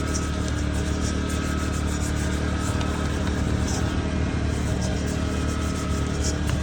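Steady machine hum at a car wash, holding several fixed pitches over a low drone without change.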